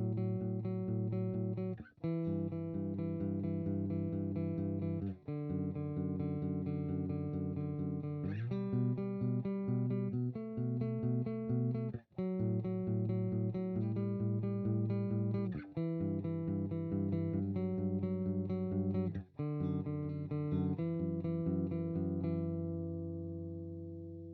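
Harley Benton Telecaster-style kit electric guitar, recorded direct through an amp-simulator plugin on a clean tone. Chords are picked in quick repeated strokes and change every two to four seconds, with brief breaks between them. Near the end a last chord is left to ring and fade.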